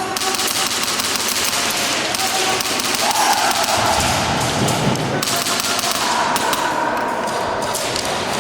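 A dense, steady clatter of rapid clicks and thuds during airsoft play, typical of airsoft guns firing and BBs striking.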